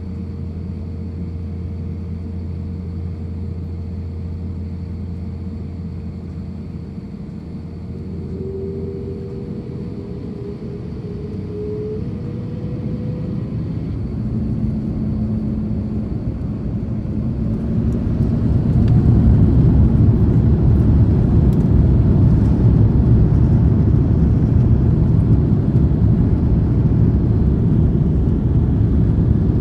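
Airbus A350-1000's Rolls-Royce Trent XWB engines heard from inside the cabin, spooling up: a steady hum with faint rising whines grows louder, then about two-thirds through becomes a loud, steady roar as takeoff thrust comes on.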